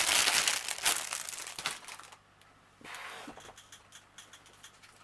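Plastic packaging and small bags of diamond-painting drills crinkling as they are handled, busiest in the first two seconds, then dropping to a few faint rustles.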